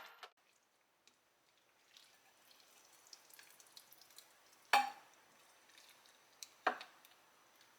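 Faint, soft crackling with two short, sharp knocks about two seconds apart, the first louder.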